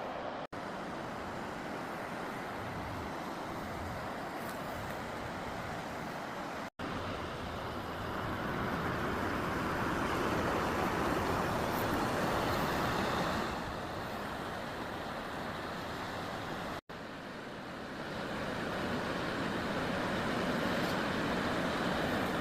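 Swollen river rushing in high water after rains, a steady whitewater noise, broken by three very brief gaps where separate clips are joined.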